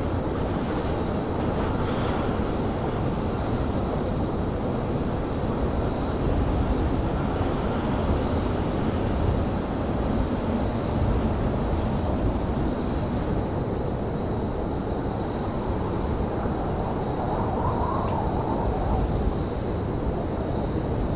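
Steady low rumble of railyard ambience, with a thin, constant high whine over it.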